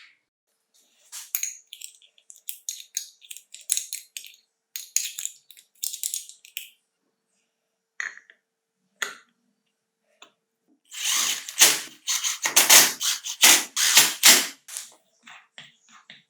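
Irregular clicks, scrapes and knocks of hand tools and metal parts being worked on a small power tool, busier and louder from about eleven seconds in; no motor runs.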